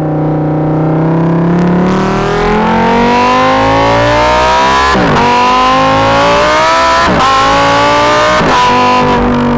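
Lamborghini Huracan EVO's naturally aspirated 5.2-litre V10, heard right at the exhaust, accelerating through the gears. The pitch climbs, drops sharply at three quick upshifts about five, seven and eight and a half seconds in, and settles into a steady note near the end.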